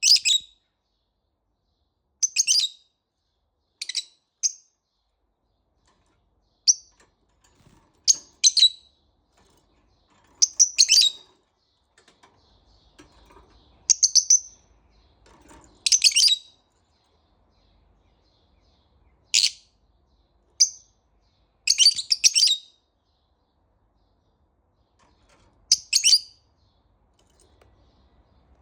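Pet parrotlet chirping: short, high chirps in about a dozen brief bursts, some as quick double or triple chirps, spaced irregularly a second or two apart.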